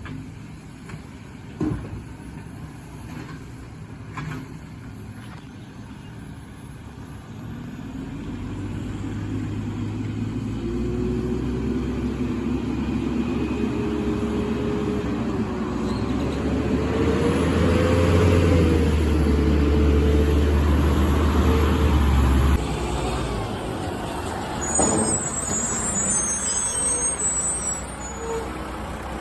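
Garbage truck's diesel engine speeding up and running hard with a wavering whine over it, typical of a refuse truck working its hydraulics, then dropping back suddenly about three-quarters of the way in. A few sharp knocks come near the start.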